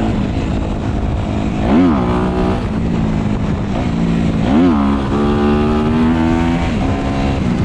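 Dirt bike engine running as the bike is ridden, with two quick revs that shoot up and drop back about two seconds and four and a half seconds in; between them the pitch holds fairly steady.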